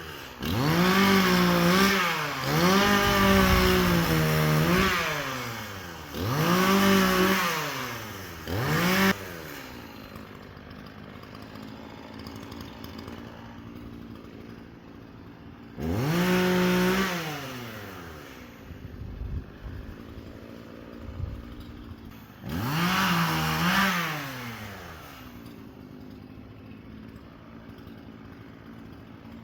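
Chainsaw engine revving up to full speed in bursts of a few seconds and dropping back to idle in between, several times, as in cutting up storm-fallen wood.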